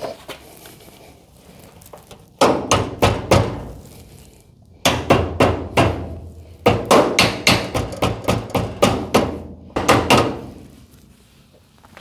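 Hammer blows on a metal garage door hinge part: a short run of quick strikes about two and a half seconds in, then a longer run of quick strikes, each with a brief ring.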